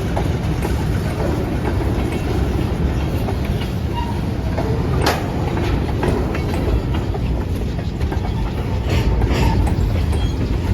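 Freight train of empty covered hopper cars rolling by on the rails with a steady low rumble. Sharp wheel clicks come about halfway through and twice close together near the end.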